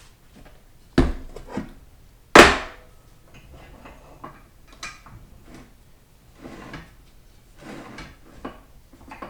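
Metal transmission parts being handled and set down during a teardown: a sharp knock about a second in, a loud clank about two and a half seconds in, then lighter clicks and rattles.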